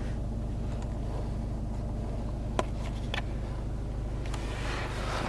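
Steady low rumble of the Peugeot 5008's 1.6 HDi diesel engine idling, heard inside the cabin, with two short clicks around the middle.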